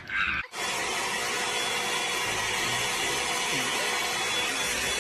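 Steady rushing noise of a small motor running, cutting in suddenly about half a second in.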